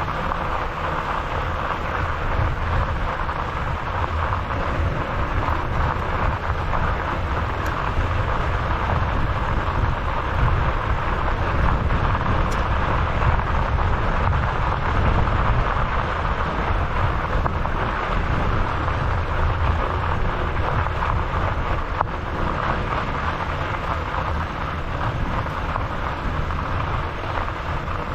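Steady wind rushing over the microphone of a camera on a moving e-bike, with a low rumble from riding along the trail.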